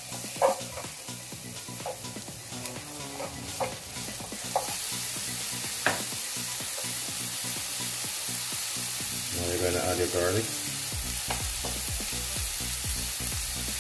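Diced onion frying in olive oil in a nonstick pan, a steady sizzle that gets louder about four or five seconds in. A spoon stirs the onion, scraping and knocking against the pan a few times in the first half.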